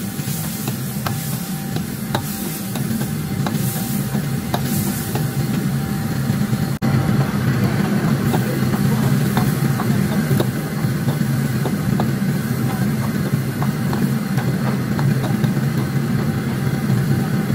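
Diced beef frying in oil in a wok, stirred and scraped with a metal ladle: a steady sizzle with scattered clicks of the ladle against the wok, over a steady low roar.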